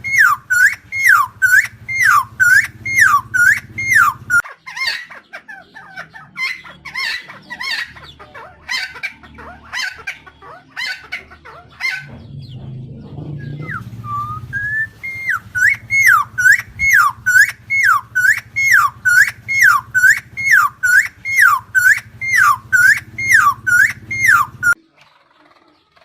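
Helmeted friarbird (Philemon buceroides) calling: a rapid string of loud, repeated notes, each dipping and rising in pitch, about two a second. In the middle the calls break into rougher, scattered chattering, then the repeated notes resume and stop abruptly near the end.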